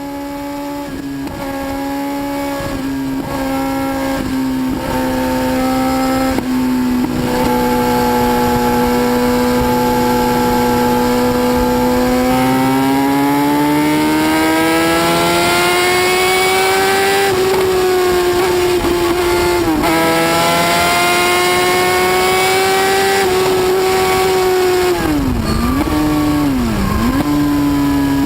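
High-speed motorcycle engine running at high revs, holding a steady high note. It has several brief dips in the opening seconds, climbs higher in pitch midway, then dips sharply twice near the end and starts to fall away.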